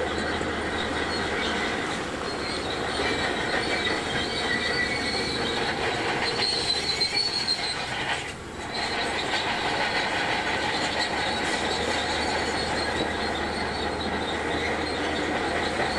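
Shantui DH17C2 crawler bulldozer working, its engine running under steady high squealing and clanking from the steel tracks, with a brief dip in loudness about halfway.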